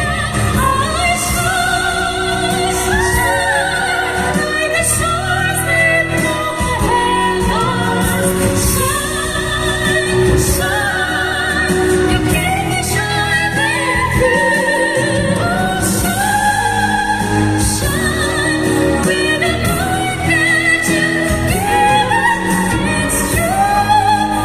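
Live music: singing with instrumental backing, the voices holding long notes with vibrato.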